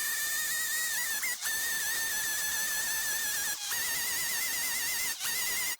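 Angle grinder grinding down a raised weld on steel: a steady high whine with a hiss, its pitch wavering as the disc bears on the metal, cutting out briefly three times.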